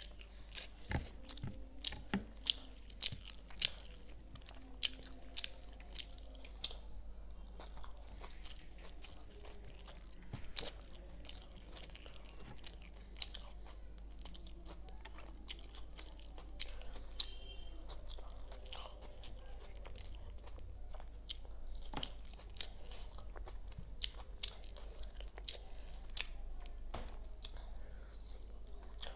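A person chewing and biting food eaten by hand, close to the microphone, with irregular sharp mouth clicks and smacks throughout.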